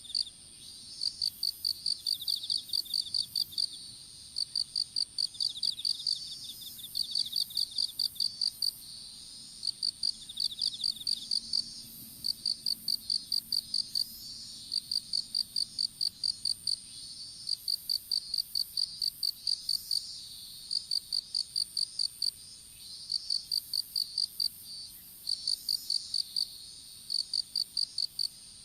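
Field insects chirping: one sings short runs of rapid high chirps every couple of seconds, over another insect's steady, higher continuous trill.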